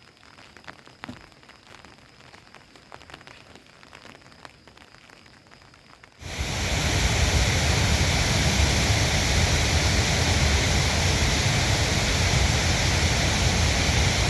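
Faint scattered drips for about six seconds, then heavy, steady rain noise cuts in suddenly and keeps going.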